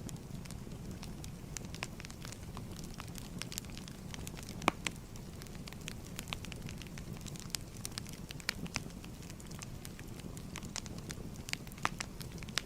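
Burning firewood crackling: irregular sharp snaps and pops over a low steady rumble, with one louder pop about a third of the way in.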